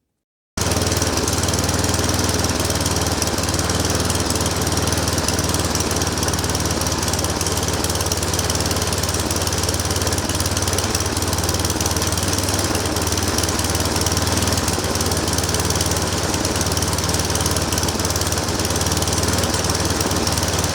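Snowblower engine running steadily at one constant speed, cold-started with its electric starter. It cuts in abruptly about half a second in.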